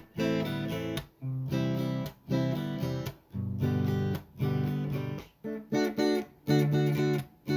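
Music: an acoustic guitar strumming chords in short phrases, each about a second long with brief gaps between them.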